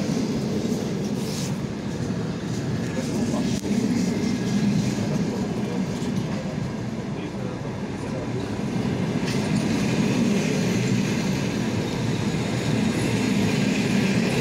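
Passenger coaches of a departing train rolling past on the track: a steady rumble of wheels on rail with a few knocks.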